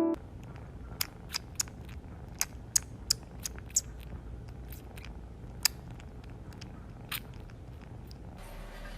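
A cat chewing crunchy food: a dozen or so irregular sharp crunches over a low steady hum.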